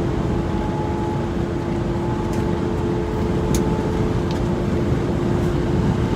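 Semi-truck engine and road noise heard inside the cab while driving: a steady low rumble with a constant hum, and a few faint ticks.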